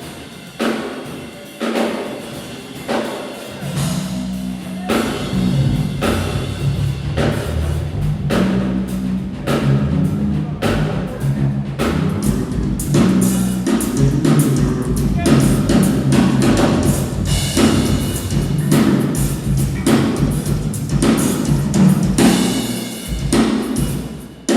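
Drum kit played in a sound check: spaced hits at first, then from about four seconds in a denser, louder stretch of fills over deep low notes.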